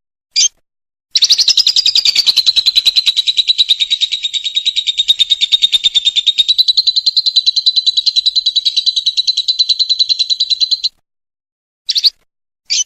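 Lovebird giving a long, rapid, rattling trill (the 'ngekek') for about ten seconds, with single short chirps before and after it.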